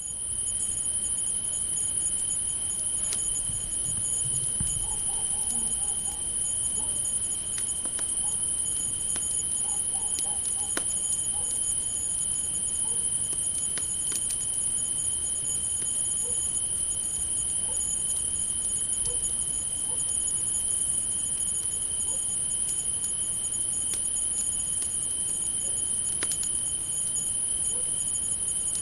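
Crickets chirping in a steady night chorus, heard as unbroken high-pitched tones. A campfire crackles faintly now and then, as a few sharp pops.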